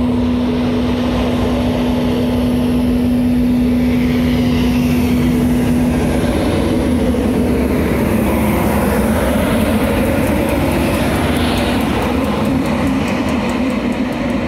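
Class 91 electric locomotive 91110 passing close by under the overhead wires, hauling Mark 4 passenger coaches, with a loud continuous rumble of wheels on rail. A steady hum holds through about the first six seconds, then wavers as the coaches follow.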